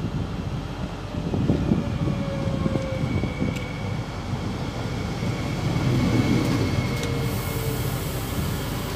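Omneo Premium (Bombardier Regio 2N) double-deck electric multiple unit pulling into the platform and passing close by, a steady rumble of wheels on rail with a faint whine that slides slightly down in pitch as it slows.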